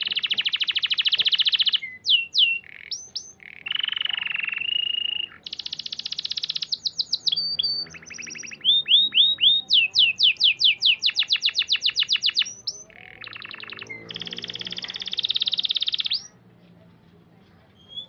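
Domestic canary singing a long, loud song of rapid trills and runs of repeated downward-sliding whistles, which stops about 16 seconds in.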